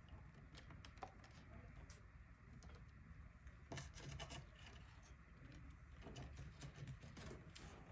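Faint scratching and scattered light clicks, with a denser flurry of scratches about four seconds in.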